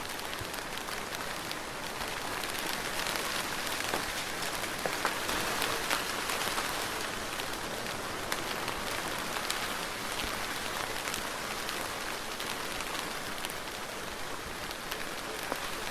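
Steady soft rain: a dense, even hiss with many small drop ticks, swelling slightly a few seconds in.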